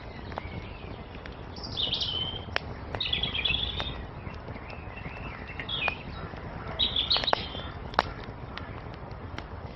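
Songbirds singing several short chirping phrases over a crackling wood fire, with scattered pops and one sharp pop near the end, and a low steady rumble underneath.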